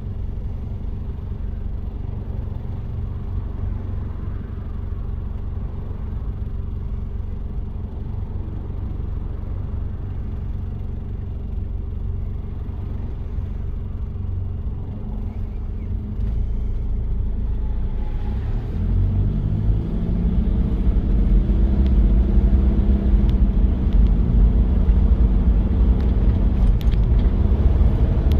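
Diesel engine of a 1993 Toyota Prado running steadily under way, a low rumble; about two-thirds of the way in it grows louder and its pitch climbs and wavers as the vehicle accelerates.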